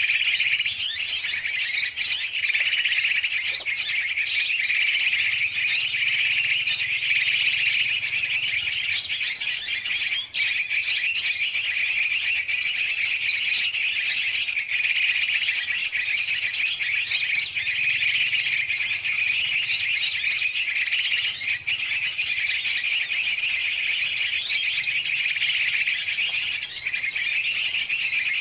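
Bird-trapping lure recording: a dense, noisy chorus of many birds chirping and twittering at once, large and small species mixed. Rapid high trilled phrases recur every two to three seconds over the continuous chatter.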